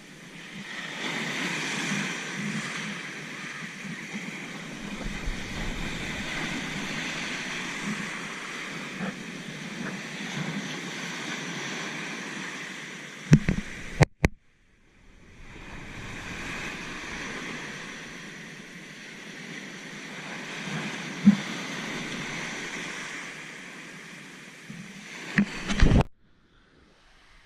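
Ocean surf washing and breaking, with wind buffeting the microphone. There are a few sharp knocks, and the sound cuts out to silence twice, briefly, about halfway through and near the end.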